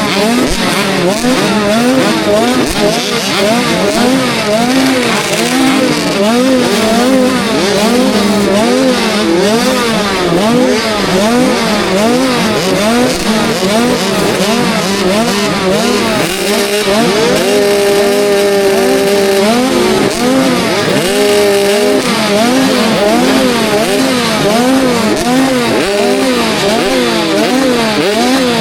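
KTM SX65 65cc two-stroke motocross engine revving up and down about once a second as the bike is ridden round the track, with the throttle held steady for a couple of seconds a little past halfway.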